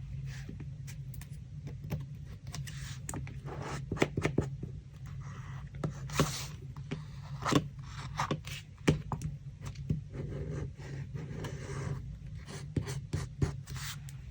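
Paper and craft materials handled by hand while making a collage: rubbing, scraping and rustling with scattered sharp taps and clicks, over a steady low hum.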